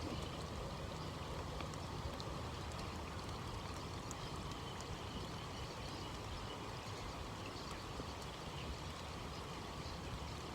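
Steady outdoor water noise, with a few faint scattered ticks.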